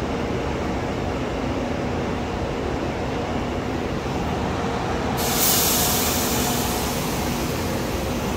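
SRT high-speed train at the platform, humming steadily. A sudden loud hiss starts about five seconds in and slowly fades.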